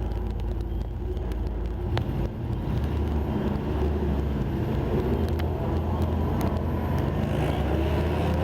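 A motor vehicle driving along, its engine and road noise making a steady low drone.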